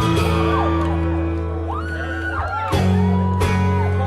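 Live rock band music, with long held low notes under sliding, gliding higher notes; the low notes drop out briefly about halfway through and come back.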